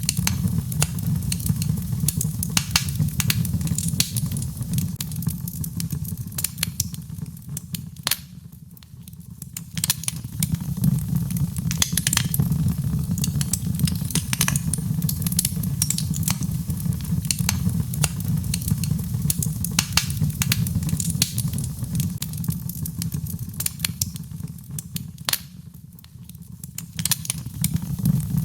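Birchwood fire burning in a fireplace, crackling and popping densely over a steady low rumble. The crackling thins out twice, briefly.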